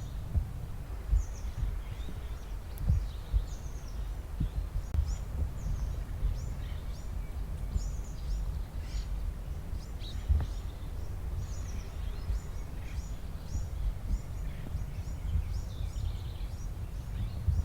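Small birds chirping over and over in short, quick notes, over a steady low rumble.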